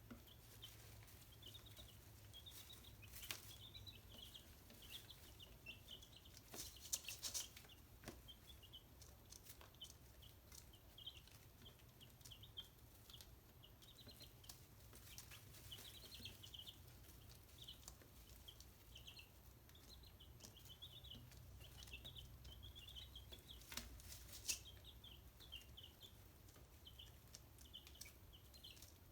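Chicks peeping, a continuous run of short high chirps, with a few sharp clicks.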